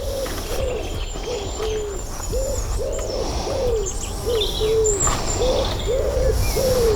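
A bird giving a rapid run of short hooting calls, about two a second, each rising and falling in pitch, with small birds chirping faintly and high above it.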